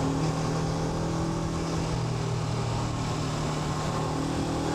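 Honda NX500 motorcycle's 471 cc parallel-twin engine running at steady revs while riding, one held engine tone over a steady rush of noise.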